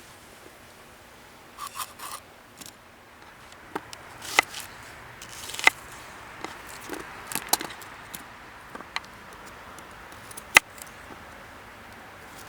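Scattered clicks, light knocks and short scrapes of objects being handled at irregular moments, with one sharp click standing out about ten seconds in.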